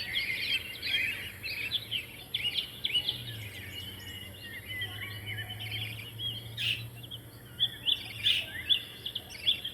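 A group of pet birds, an adult and its chicks, chirping continuously in many short, overlapping high chirps.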